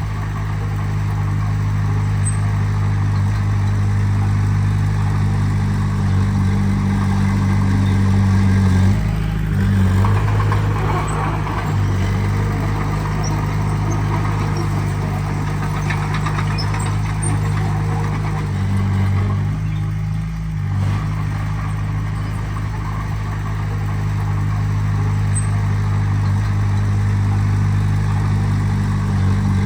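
Heavy-machinery diesel engine running steadily at a low pitch, with its note shifting briefly about nine seconds in and again around twenty seconds in.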